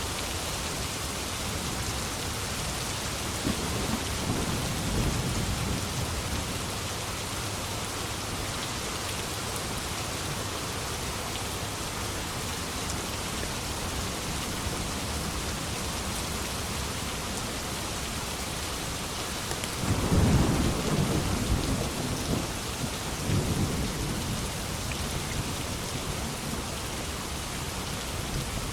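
Steady heavy rain with rolls of thunder: a low rumble about four seconds in, and a louder, longer thunderclap with rolling rumble about twenty seconds in.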